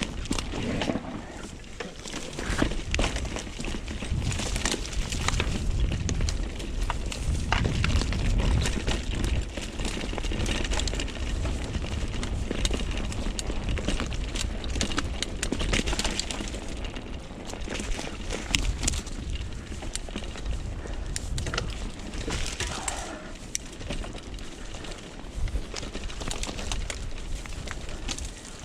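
Mountain bike riding down a dirt trail: the tyres rolling over rough ground and the bike rattling over bumps in many quick clicks and knocks, with wind rumbling on the microphone.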